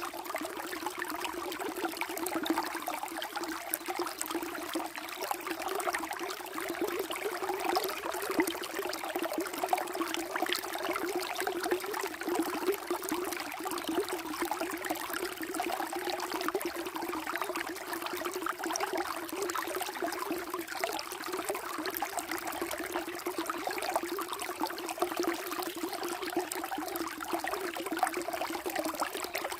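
Water flowing steadily, with a constant fine trickling and gurgling.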